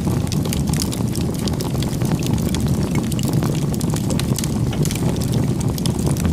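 Wood fire burning: a steady low rumble of flames with frequent small crackles and pops.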